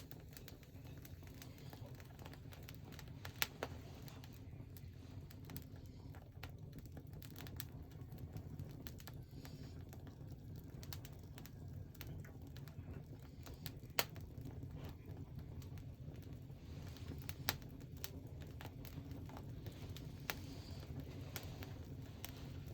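Bonfire burning: a low steady rush with scattered sharp pops and light crackling.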